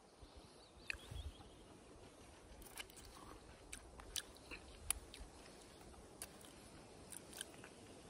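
Faint close-up eating sounds of grilled meat being chewed and sucked off a small bone: quiet chewing with scattered wet smacks and clicks, the sharpest about five seconds in.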